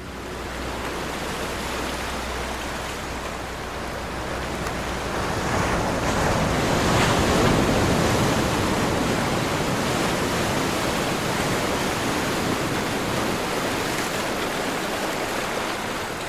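Ocean surf washing steadily, one wave swelling to its loudest about seven seconds in and then slowly easing away.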